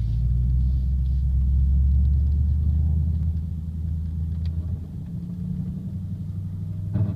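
A 2007 Audi S4's V8 pulls under load at low revs with a deep, steady rumble. It carries the buzzing rattle that appears only between about 1300 and 1500 RPM under load, and whose cause is not yet known. The rumble is loudest for the first few seconds, then eases to a higher, steadier hum about five seconds in.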